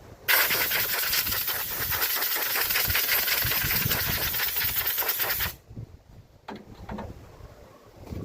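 Compressed-air blow gun blasting air through a lawnmower air filter to clear dust and grass. The hiss lasts about five seconds, starting and stopping abruptly, and a couple of light knocks follow.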